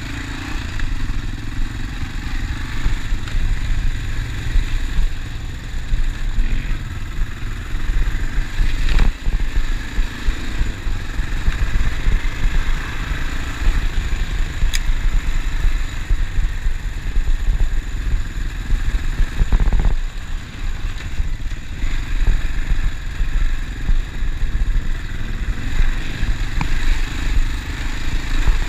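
Honda Dominator NX650's single-cylinder four-stroke engine running under way, its loudness rising and falling with the throttle, over a rough off-road surface. Two sharp knocks are heard, about nine seconds in and about twenty seconds in.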